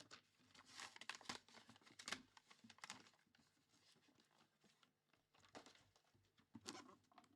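Faint tearing and crinkling of packaging as a pack or box is opened by hand, in short irregular rustles.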